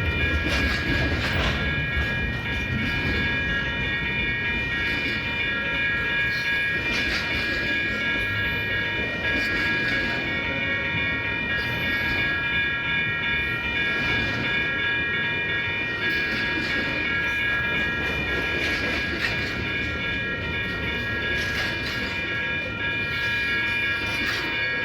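A train rolling past: a steady rumble with faint clicks every second or two, under several steady high-pitched tones held throughout.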